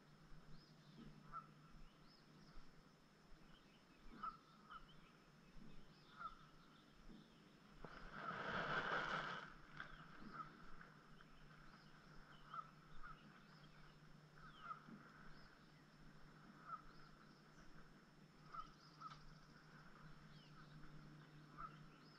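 Faint outdoor bird calls, short chirps every second or two, over a low steady hum. About eight seconds in, a louder rushing noise swells and fades over roughly two seconds.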